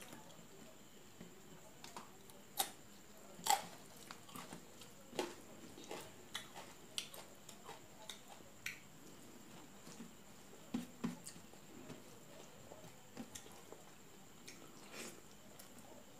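Close-up eating sounds of someone chewing mouthfuls of rice and curry eaten by hand: soft wet chewing with scattered short smacks and clicks, two louder ones a few seconds in.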